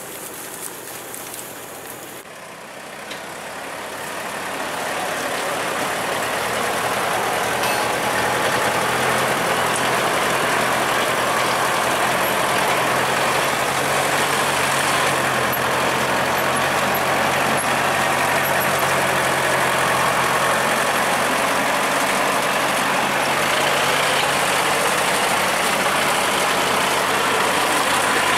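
Heavy truck engine running, growing louder over the first few seconds and then holding at a steady, even level.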